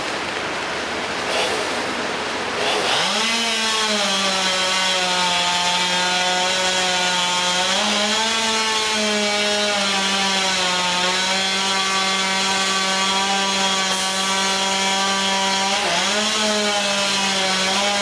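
Two-stroke chainsaw running at high revs, as if cutting wood, starting about three seconds in after a steady background hum. The pitch dips slightly under load and briefly rises twice.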